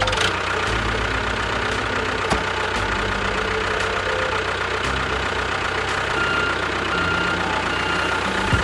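A miniature DIY tractor or bulldozer's motor running steadily.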